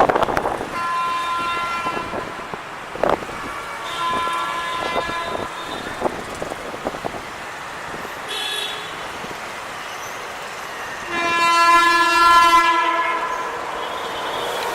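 WAP-7 electric locomotives creaking: four drawn-out, high-pitched creaks. The longest and loudest comes about eleven seconds in and lasts some two seconds. Short knocks fall in between.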